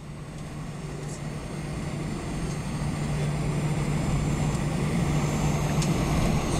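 Airbus A320 cabin noise at a window seat before takeoff: the steady hum and whoosh of the running jet engines and air system, with a low drone, growing gradually louder.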